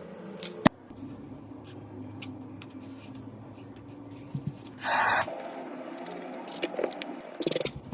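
Small clicks and taps of hands working on a phone's parts, with one sharp click under a second in. A short spray hiss comes about five seconds in, and a quick run of clicks follows near the end.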